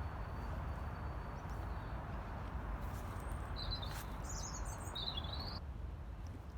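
Birds chirping: two short bursts of high chirps about halfway through, over a steady low background rumble.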